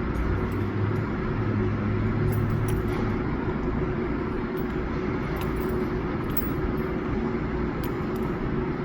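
A steady mechanical hum with a constant tone, with a deeper hum in the first three seconds and a few faint clicks over it.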